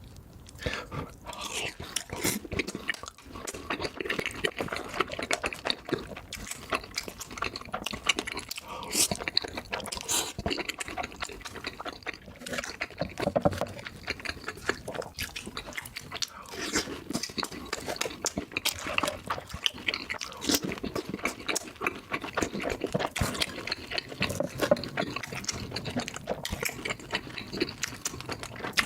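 Close-miked mukbang eating sounds played back at double speed: chewing and biting as a dense, irregular run of small clicks and crackles.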